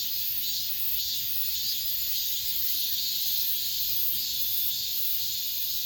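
Cicadas singing in chorus: a steady, high, hissing buzz that swells and fades unevenly.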